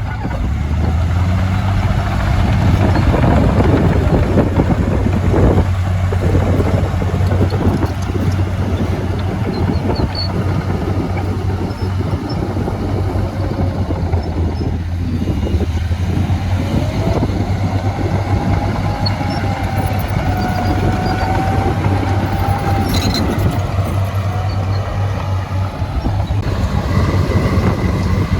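Heavy diesel earthmoving machinery running steadily under work, with a deep constant engine hum and a wavering higher whine from about halfway through to near the end.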